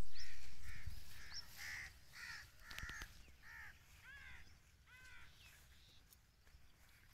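A bird calling over and over, about two short arched calls a second, dying away after about five seconds. A low rumble, loudest at the start, runs underneath.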